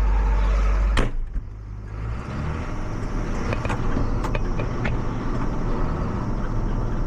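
Tractor engine idling with a heavy low rumble. A sharp knock comes about a second in, the rumble drops away, and then a quieter steady engine hum with a few light clicks follows.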